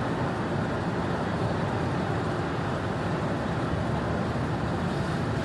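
Steady road noise heard from inside a car's cabin while cruising at highway speed: tyres and engine running evenly.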